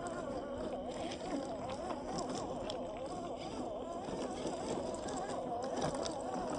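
Electric motor of an RC off-road 4x4 car whining, its pitch wavering up and down as the throttle is worked, with scattered sharp clicks and clatter of the tyres and chassis on rocks.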